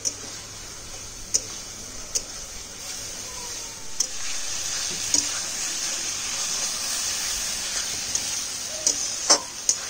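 Potatoes, drumsticks and spice paste sizzling in a pan as they are sautéed, with a few sharp clicks of a spatula against the pan. The sizzle grows louder about four seconds in.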